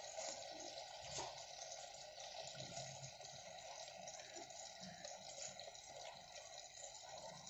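Chicken masala sizzling faintly in oil in an aluminium pressure cooker pot, a steady soft hiss, with a few light rustles as raw rice is poured in on top.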